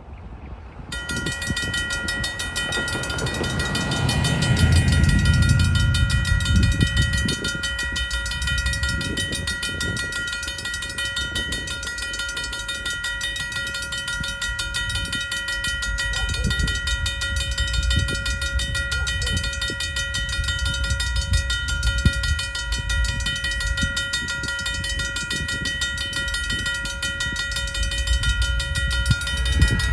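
Railroad crossing bell ringing steadily while a diesel locomotive passes over the crossing, its engine loudest a few seconds in. Its wheels then knock rhythmically over the rail joints as the train rolls through.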